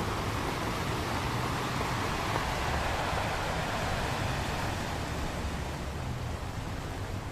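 Ocean waves breaking on a beach, one long wash of surf that builds through the middle and slowly fades, over a low rumble.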